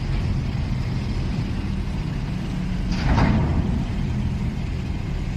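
Heavy vehicle engines of cargo-loading traffic running steadily, with a louder rushing surge about three seconds in.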